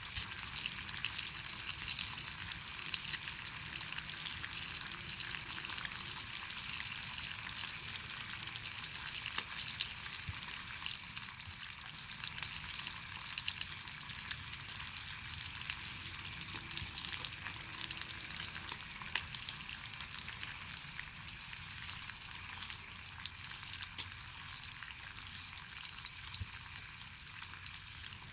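Bacon frying over a wood fire: a steady sizzle full of small pops and crackles.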